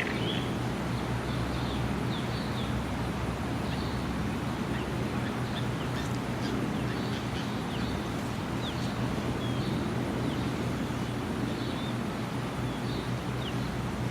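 Steady rumble of a distant aircraft, with small birds giving short chirps now and then.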